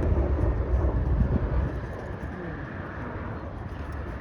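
Strong wind buffeting the microphone: a heavy, gusting rumble that eases about halfway through.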